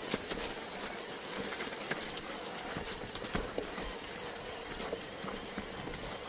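Snow crunching and rustling on a mountain trail, a steady noise broken by irregular small clicks and knocks.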